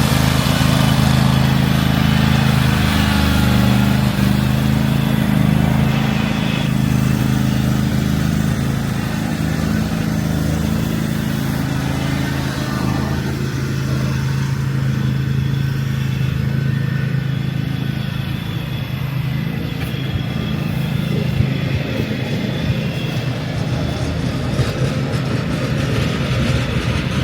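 An engine running with a steady low hum that fades away about halfway through, over a steady wash of street noise.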